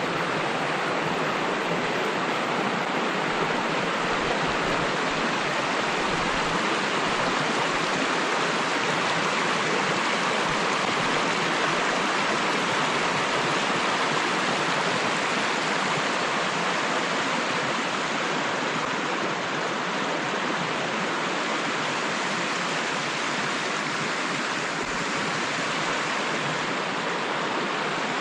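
Rushing water, a steady, unbroken rush with no change over the whole stretch.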